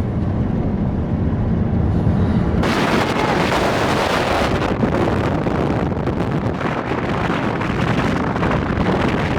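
A low vehicle rumble, then about two and a half seconds in, strong wind suddenly starts buffeting the microphone with a loud, steady rush.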